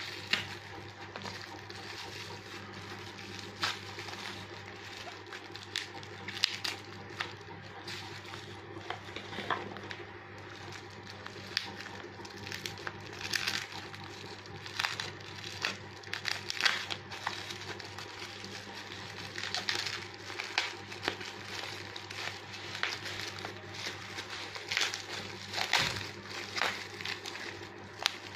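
Thick packaging wrap being pulled and torn open by hand: irregular crinkling and rustling, over a steady low hum.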